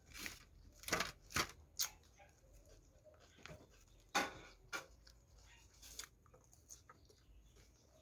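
Close-up eating sounds: irregular wet smacks and chews of someone eating a meal of noodles and chicken, several sharp ones in the first two seconds and another just after the midpoint.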